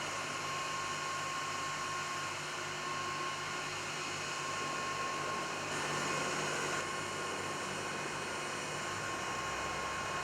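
Northrop F-5E Tiger II jet noise during start-up: a steady rushing hiss with a thin, high, constant whine, holding level without spooling up or down.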